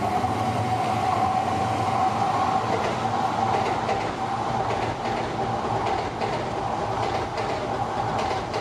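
ALFA-X Shinkansen test train running past on its rails: a steady rumble of wheels and running gear with a steady tone above it, and light clicks of the wheels over the rails in the second half.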